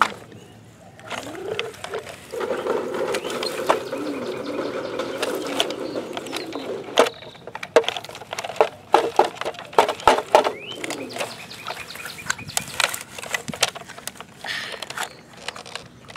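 Children playing with plastic toy construction trucks: a droning hum with sliding pitch for a few seconds, then a quick run of clicks and knocks as the toy parts are worked.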